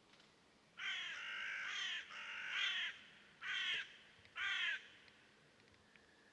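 A bird giving four harsh, cawing calls, the first two long and the last two short.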